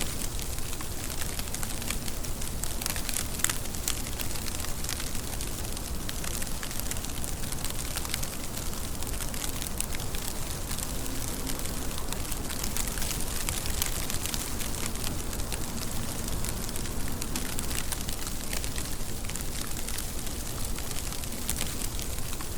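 Steady rain falling, an even rush of dense drops with sharp, close drop ticks scattered throughout.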